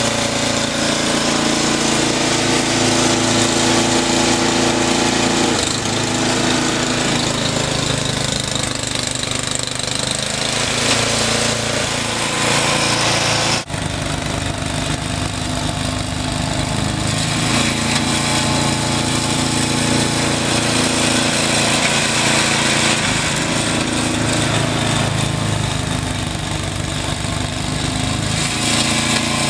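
Small snowblower engine running steadily as it clears a deep snowdrift, its pitch shifting a few times as the load changes. The sound breaks off very briefly about halfway through.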